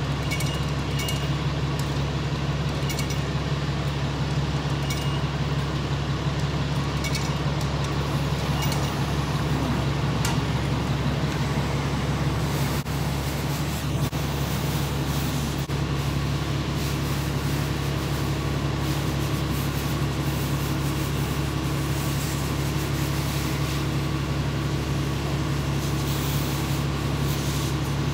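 Self-serve car wash wand spraying spot-free rinse water, a steady hiss of water over a constant low hum.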